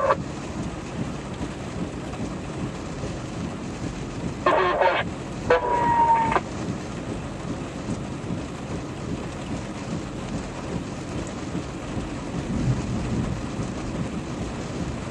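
Steady hiss of heavy rain, with two brief voice-like bursts about four and a half and five and a half seconds in.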